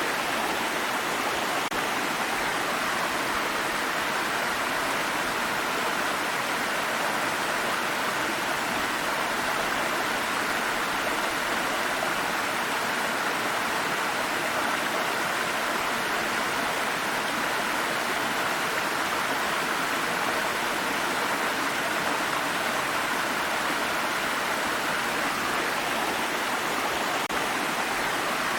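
A water stream running steadily, with an even rushing that is strongest in the mid range.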